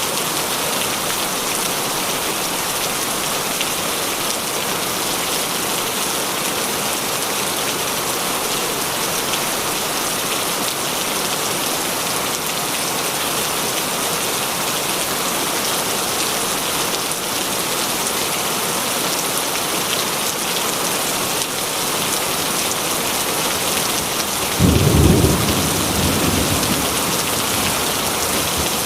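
Heavy rain falling steadily, with a sudden clap of thunder near the end that rumbles away over a couple of seconds.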